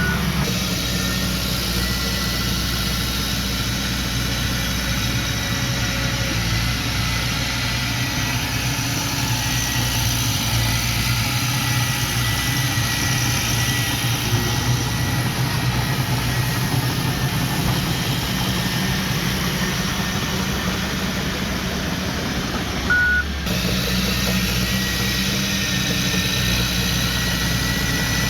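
Heavy diesel engine of earthmoving equipment running steadily. A single short reversing-alarm beep sounds about 23 seconds in, and the engine sound changes abruptly just after it.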